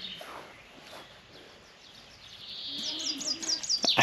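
A small songbird singing a fast string of high, falling chirps, about five a second, which starts a little past halfway and grows louder. A single sharp knock comes just before the end.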